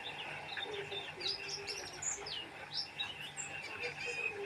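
White-eye (pleci) singing continuously in a fast, busy run of high chirps and quick up-and-down notes, with a short trill about three seconds in.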